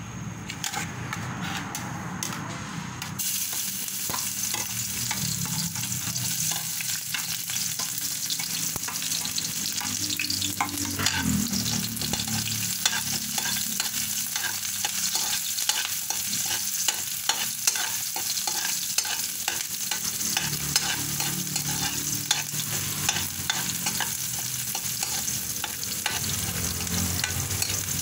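Chopped onion and garlic sizzling in hot oil in a metal wok, with a metal ladle scraping and clicking against the pan as it stirs. The sizzle comes in suddenly about three seconds in and then holds steady.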